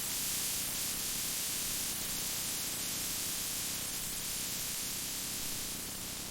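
A steady hiss, bright and even, with no rhythm or strikes.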